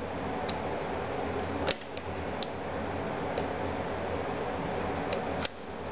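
Steady fan-like whir with a low hum, broken by a few light clicks and taps.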